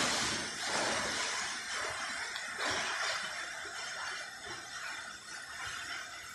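Waterfall rushing: a steady hiss of falling water that grows gradually fainter.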